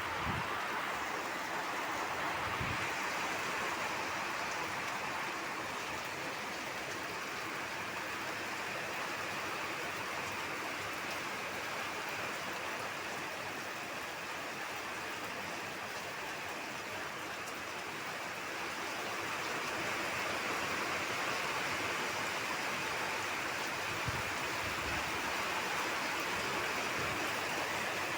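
Heavy rain falling in a steady downpour, an even hiss that eases slightly midway and picks up again later on.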